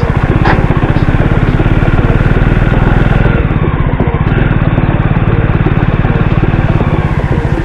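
Motorcycle engine running steadily under way, with a rapid, even beat of engine pulses.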